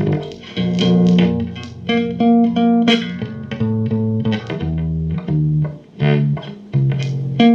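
A guitar being played: a run of plucked notes and short chords with a strong low end, each note starting sharply and changing pitch every half second or so.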